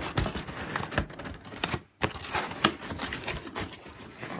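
Cardboard packaging being handled and pulled at: a busy run of rustling, scraping and clicking, with a short pause about halfway through.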